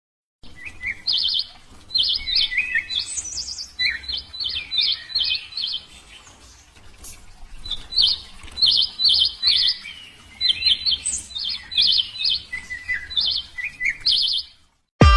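Small birds chirping: many short, high chirps in quick runs, with a quieter pause about halfway through.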